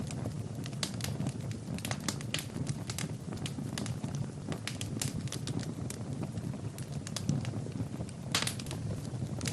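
Wood fire burning in a fireplace: a steady low rush of flames under frequent sharp crackles and pops, with a cluster of louder pops about eight seconds in.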